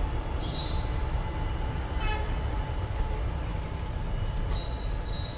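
Passenger coaches of a departing express train rolling past on the rails: a steady low rumble of wheels on track, with a few short high-pitched squeals about half a second, two, and four and a half seconds in.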